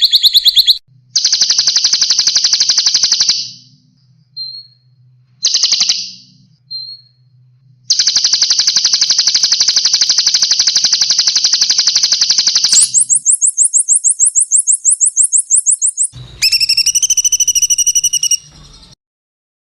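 Edited sequence of small songbird recordings used as song-training material for Oriental magpie-robins: fast buzzing trills lasting a few seconds each, then a very high, rapid run of repeated notes, then sharp ringing calls near the end, with abrupt cuts between them.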